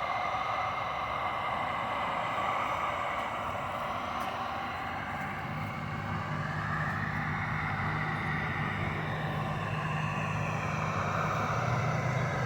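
Heat gun running steadily, its fan blowing hot air across freshly poured epoxy, with a lower hum joining about five seconds in.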